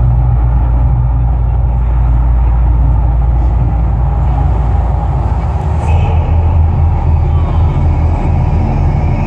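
Deep, steady, loud rumble from the Mirage volcano show's eruption soundtrack over its loudspeakers, with faint higher musical tones coming in about six seconds in.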